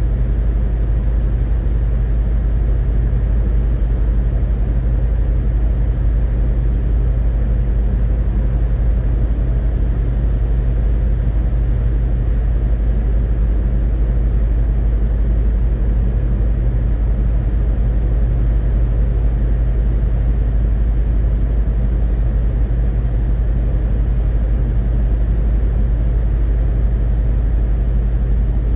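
MAN TGX 18.520 truck on the move, its straight-six diesel engine and rolling noise making a steady low drone that does not change.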